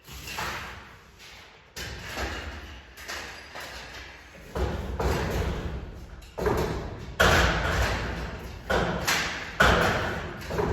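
An irregular string of thumps and knocks, about one every second, growing louder.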